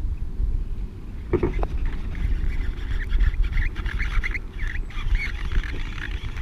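Ducks quacking: a run of short, irregular calls over a steady low wind rumble.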